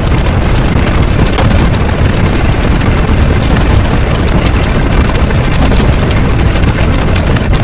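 Loud, steady rumbling noise, heaviest in the low end, with a dense crackly texture throughout.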